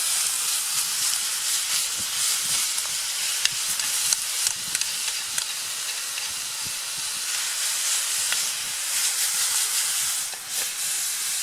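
Beef mince frying in a pan: a steady sizzling hiss with small crackling pops.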